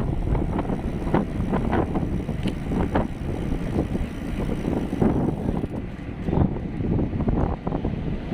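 Wind buffeting the microphone of a camera riding on a moving bicycle: a steady low rumble with frequent gusty peaks.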